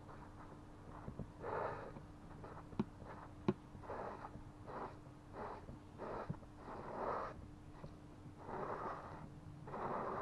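Plastic welding on a wheel arch liner: a steady low electrical hum from the welder, two sharp clicks, and a string of short, irregular hissing puffs. The hum cuts out near the end.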